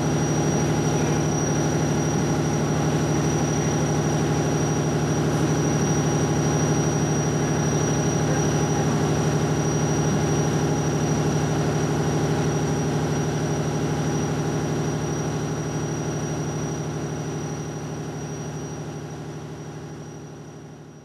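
Passenger train standing at the platform, its equipment giving a steady low hum with a thin high whine above it. The sound fades away over the last few seconds.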